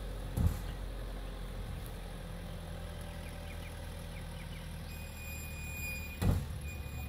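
Vehicle engine running steadily at low revs, a low hum, with two sharp thumps, one near the start and one near the end.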